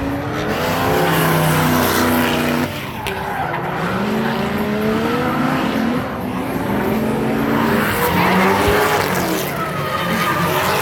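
Drift cars on track: engines revving hard, their pitch climbing and dropping again and again as the drivers work the throttle through the slides, over the hiss and squeal of spinning tyres.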